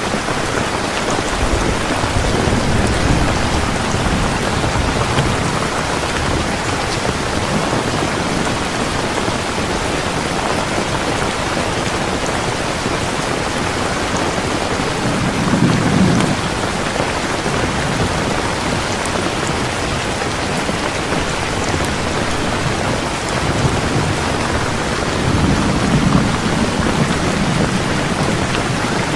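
Heavy rain pouring steadily, with low rolls of thunder rumbling under it: one near the start, a short one around the middle, and a longer one through the last few seconds.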